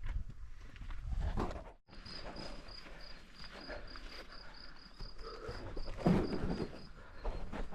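An insect, cricket-like, trilling in high, even pulses about four or five a second, starting after a cut about two seconds in. Before it, wind rumbles on the microphone.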